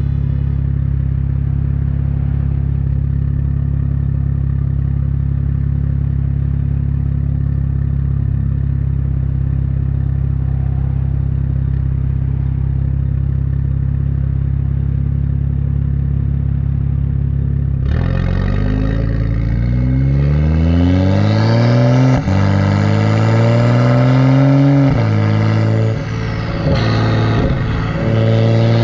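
BMW 135i's turbocharged N55 inline-six, straight-piped through a catless downpipe and muffler delete, idling steadily. In the last third it is revved several times: a few long climbs in pitch that drop back, some quick blips, and a held high rev at the end.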